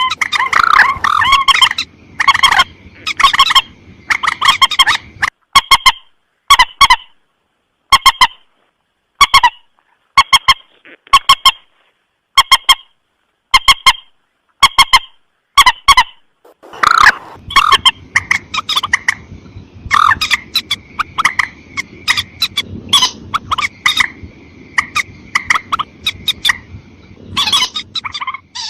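Burung mandar sawah (a rail) giving loud, sharp calls over and over in rapid runs, played as a lure recording. The calls thin to single spaced notes for a stretch in the middle, then come thick again over background hiss.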